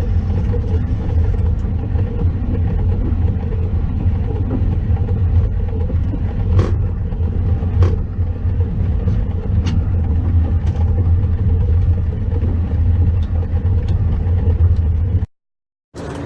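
Steady low rumble of an Airbus airliner rolling along the runway after touchdown, heard from the cockpit, with a couple of sharp clicks in the middle. It cuts off abruptly near the end.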